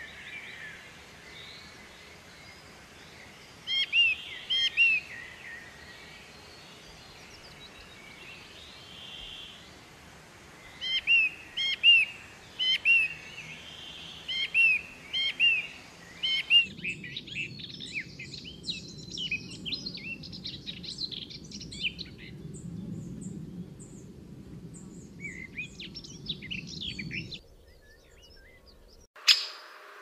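Wild birds calling: clusters of short, sharp chirps repeated a few times a second, then from about halfway through a denser stream of rapid twittering over a low background rumble. A brief loud noise sounds near the end.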